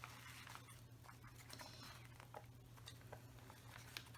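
Near silence: faint rustling and light ticks of paper journal pages being handled, over a low steady hum.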